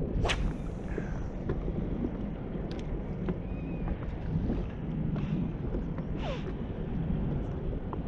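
Wind buffeting the microphone in a steady low rumble, with a few faint brief ticks now and then.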